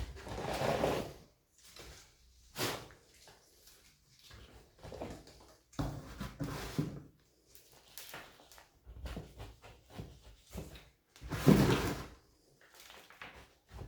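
Coarse orchid potting mix of bark chunks and sphagnum being handled and worked into a pot: a series of uneven rustling, scraping and knocking bursts, the loudest about two thirds of the way through.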